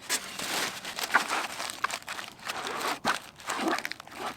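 Aluminium foil crinkling and rustling in irregular bursts as a foil cooking packet is handled and folded.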